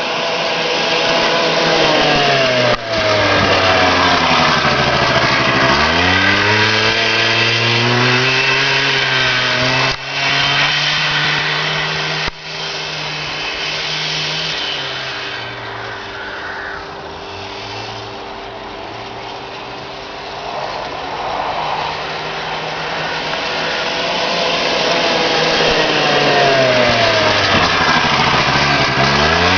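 Yamaha Ovetto 50cc two-stroke scooter engine running in a small off-road buggy as it is driven around. Its pitch sweeps down and back up twice as it passes, once early on and again near the end. It grows fainter in the middle as it moves away, then louder again as it comes back.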